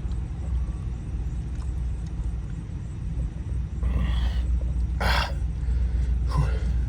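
Steady low rumble inside the van, with three short breathy gulps and exhalations of a man drinking, about four, five and six and a half seconds in.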